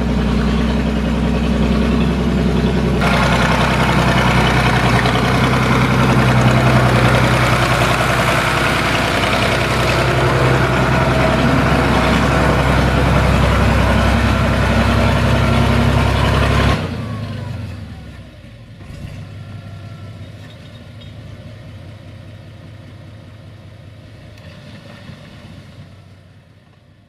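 SAME Laser 110 tractor's diesel engine running steadily, picking up and running harder about three seconds in, then the sound cuts off suddenly about two-thirds of the way through, leaving only a faint background that fades away.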